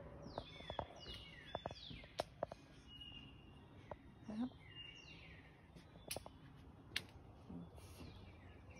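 Songbirds singing faintly, a repeated series of falling whistled notes with a few short steady higher notes between them, and scattered light clicks.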